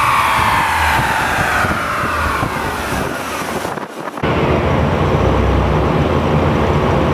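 The 1997 Dodge Viper GTS's 8.0-litre V10 winding down on the dyno rollers after a full-throttle pull, its pitch falling steadily. About four seconds in the sound cuts to a steady low engine note.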